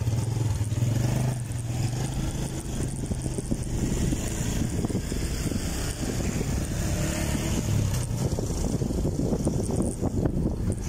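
A motor vehicle's engine humming steadily over wind and road rumble, the hum fading about eight seconds in.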